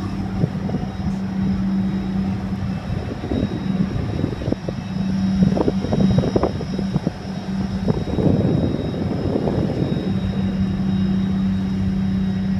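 Boat engine running at a steady speed, a constant low drone. For several seconds in the middle it is partly covered by a rough rushing noise with a few short sharper spikes.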